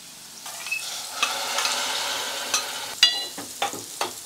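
Freshly pressure-cooked kidney beans tipped from the cooker into a hot pot of frying tomatoes, giving a sizzling hiss. After about three seconds come a few ringing metallic clinks as a ladle stirs against the pot.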